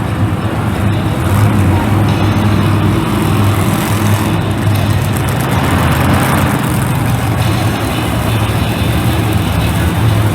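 A monster truck's big engine running loud and steady, its low pitch holding with only small changes.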